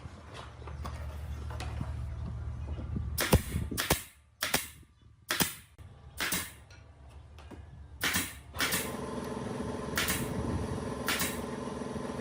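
Workshop tool sounds: a low machine hum, then a run of sharp, loud knocks spaced roughly half a second to a second apart. From about two-thirds of the way in, a steady humming machine motor starts, with a few more knocks over it.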